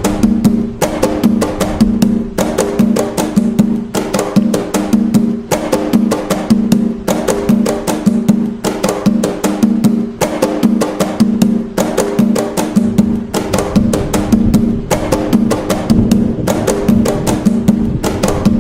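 Atabaque hand drums playing the Umbanda toque Nagô rhythm, a fast, steady, repeating pattern of open, pitched strokes and sharper slaps.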